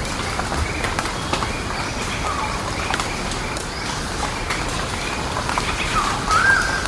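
Forest birds calling over a steady hiss with scattered ticks: a few short whistled calls, the loudest a rising then level whistle near the end.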